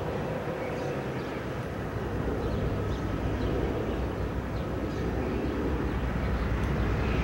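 Diesel locomotives at the head of a freight train approaching slowly: a steady low rumble growing gradually louder.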